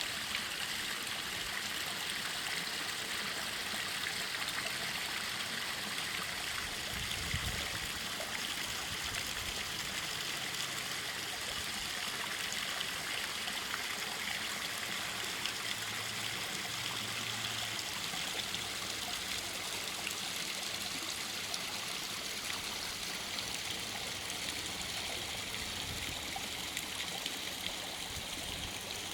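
Water from a small artificial garden-pond waterfall, splashing and trickling steadily into the pond.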